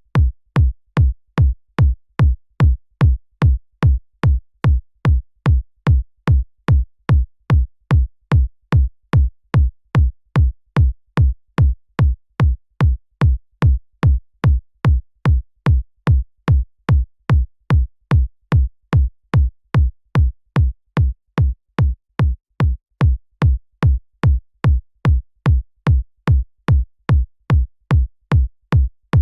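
Synthesized electronic kick drum looping alone on every beat, a little over two hits a second. Each hit is short and deep, with a sharp click at its start and silence between hits.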